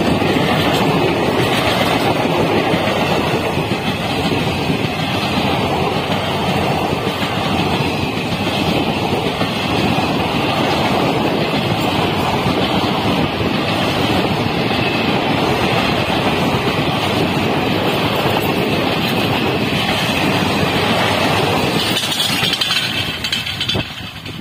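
Passenger coaches of an express train running past close by at speed: a loud, steady rush and rumble of wheels on rail. It drops away suddenly near the end.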